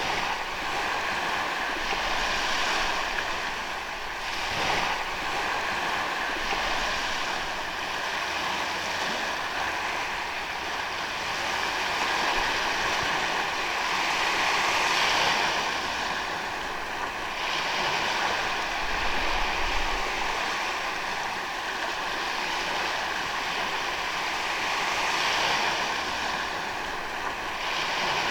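Ocean waves breaking and washing onto a sandy beach, the surf swelling and easing every few seconds.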